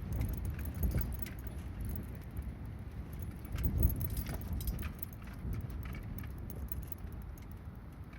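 Wind buffeting the microphone in a low, uneven rumble, strongest about four seconds in, with light metallic clinking and jingling over it.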